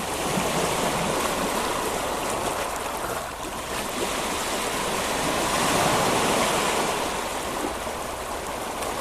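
Sea surf washing onto a sandy beach: a steady rushing of waves, swelling slightly in the middle.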